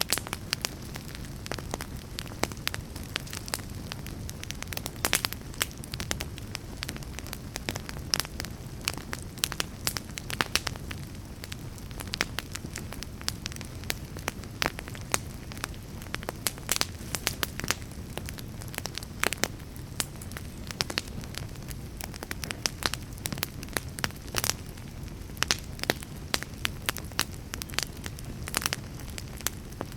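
A fire crackling: many irregular sharp pops and snaps over a steady low rumble of burning.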